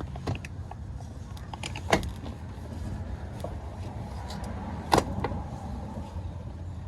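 Clanks and clicks from working on a truck's seat and its mounting bolts: two sharp knocks about two and five seconds in, with smaller clicks and rattles, over a steady low hum.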